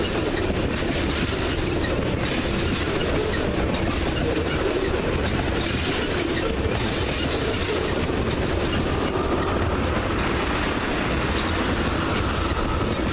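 Freight train cars rolling past on the rails with a steady wheel clatter. A faint, thin wheel squeal comes in about nine seconds in.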